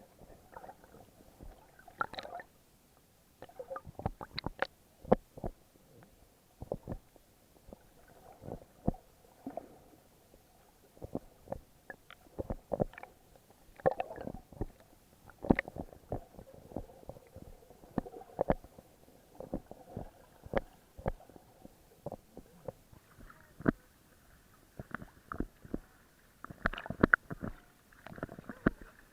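Muffled underwater sound heard through an action camera's waterproof housing: water gurgling around the case with many irregular sharp clicks and knocks.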